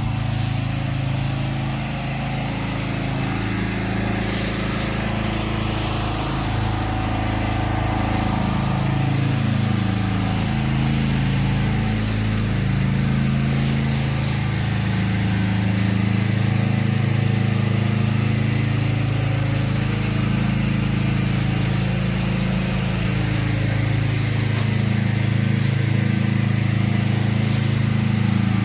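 Pressure washer's gas engine running steadily with a slowly wavering drone, under the hiss of spray as cleaning solution is put down through a downstream injector.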